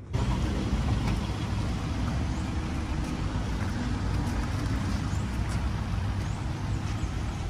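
Toyota Corolla Altis taxi with its engine running at idle, a steady low rumble.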